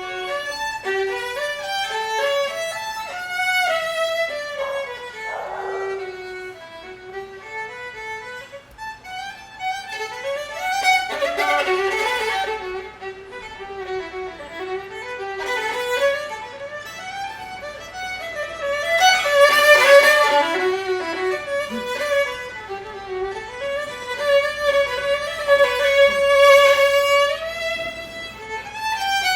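A violin playing a melody, being tried out for its sound, with louder passages about twenty seconds in and a long held note near the end.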